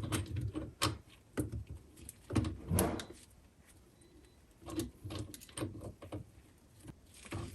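Irregular clicks, taps and clunks of hands working a faucet supply-line fitting and an adjustable wrench under a bathroom sink cabinet, with a quieter stretch in the middle.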